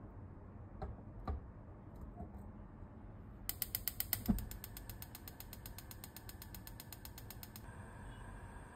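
Mechanical clicking: two single clicks, then a rapid, even run of ratchet-like clicks, about ten a second, lasting around four seconds, with a dull thump near the start of the run.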